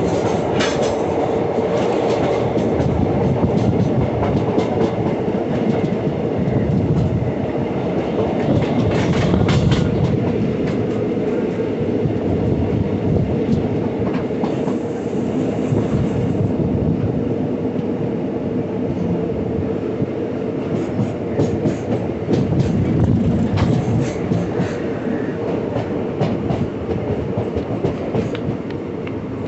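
A train carriage running along the track, heard from on board: a continuous rumble with a steady hum, and the wheels clickety-clacking over rail joints, with thicker clusters of clatter about nine seconds in and again past twenty seconds. It grows a little quieter near the end.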